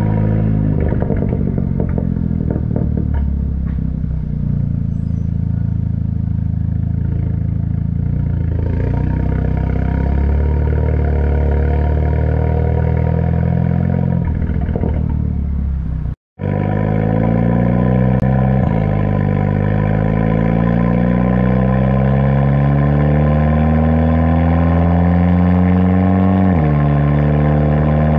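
Tuned VW GTI's turbocharged four-cylinder, breathing through a Tomei exhaust and catless downpipe, running at a fairly steady pitch. After a brief dropout midway it accelerates hard, the engine note climbing and falling sharply at two upshifts.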